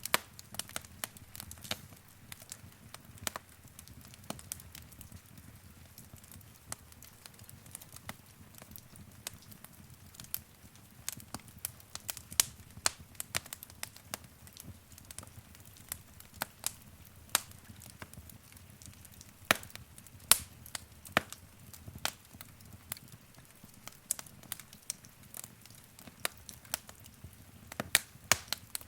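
Wood fire crackling in a fireplace: irregular sharp snaps and pops over a soft low rumble of burning.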